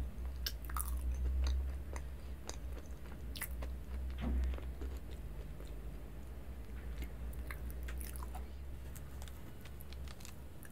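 Close-miked chewing of soft food: wet mouth clicks and smacks, thinning out in the second half, over a steady low hum.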